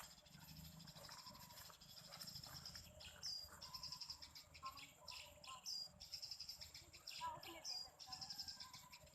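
Faint birds chirping, a few short high chirps a couple of seconds apart, over a steady high insect trill.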